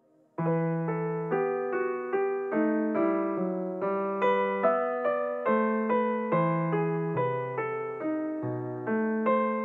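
Solo piano-style keyboard music starts abruptly about half a second in: a steady run of single notes, about two a second, over sustained bass notes.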